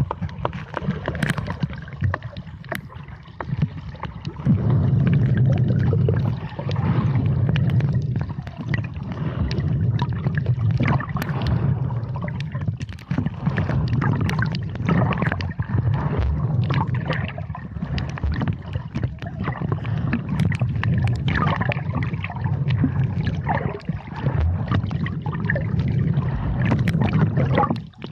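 Underwater sound picked up by a submerged camera: a low rumble that swells and dips, with scattered clicks and crackles throughout.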